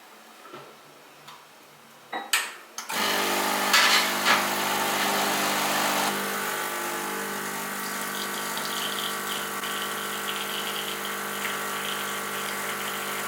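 A few sharp clicks, then a small electric appliance motor switches on about three seconds in and runs steadily at a constant pitch, rougher and more rattly for its first few seconds before settling into a smoother hum.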